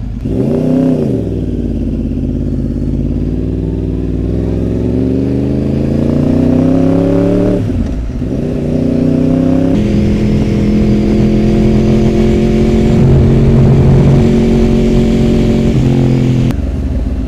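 Yamaha R1 sport bike's inline-four engine accelerating hard through the gears: its pitch climbs steadily, drops sharply at a gear change about eight seconds in, then climbs again and holds higher as the bike gains speed.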